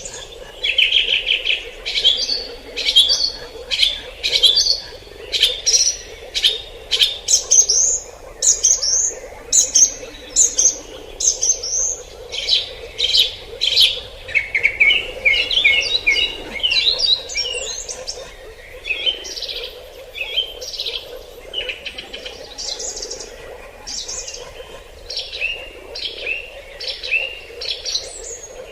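Forest birds singing, a dense run of short, high, repeated chirps and trills following one another, over a faint steady background hum.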